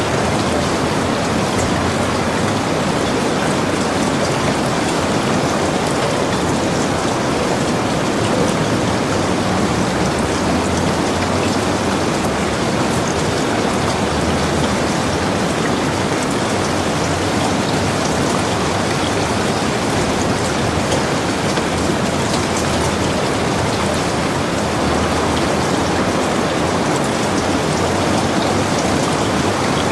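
Heavy rain falling steadily, a dense hiss with scattered drop patter, as heard from a log cabin.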